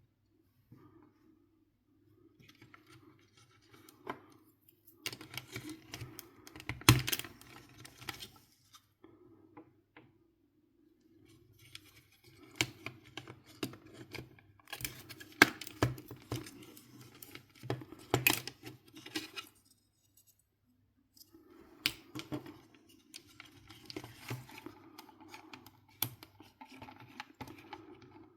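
Irregular clicks, taps and scraping of small hard parts and tools being handled during a PS4 console teardown, with a low hum that comes and goes in stretches and a short pause about two-thirds of the way through.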